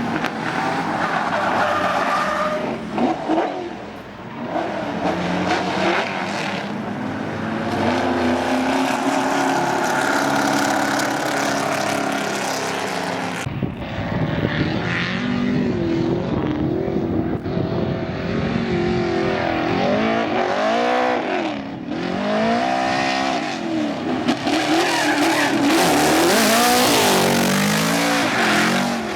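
Dodge-engined Holden Commodore drift car running hard, its revs swinging up and down again and again, over the hiss and squeal of sliding tyres.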